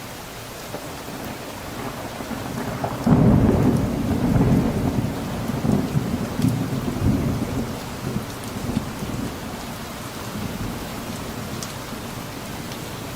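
Steady rain falling, with a roll of thunder that builds, breaks loudest about three seconds in, and rumbles on in waves for several seconds before fading back under the rain.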